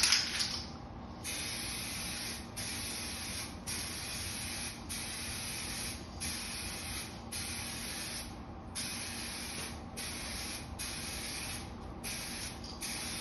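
Aerosol can of 2K clear coat hissing in a run of about ten short sprays, each about a second long with brief breaks between passes, as a thick coat of clear goes onto a headlight lens.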